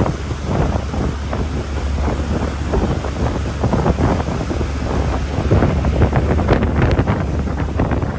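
Wind buffeting the microphone over a steady low rumble, the sound of being out on open water aboard a boat.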